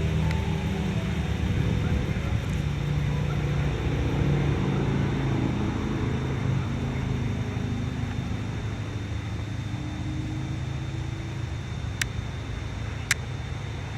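A motor vehicle engine running, with two sharp clicks near the end.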